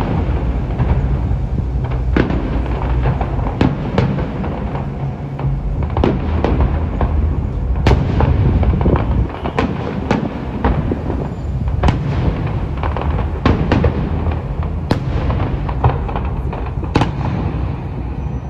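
Large fireworks display: shells bursting in quick, irregular succession, several bangs a second at times, over a continuous low rumble.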